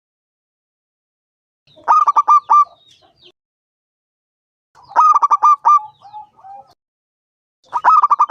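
Zebra dove (perkutut) cooing: three phrases about three seconds apart, each a quick run of short, clipped coos, the last starting near the end.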